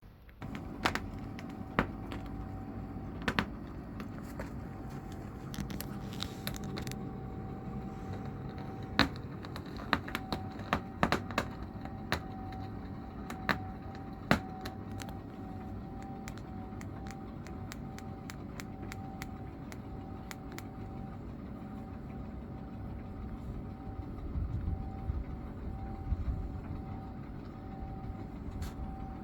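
A steady low mechanical rumble with a constant hum at one pitch, like a running engine or machine, broken by a scatter of sharp clicks and knocks in the first half. The low rumble swells near the end.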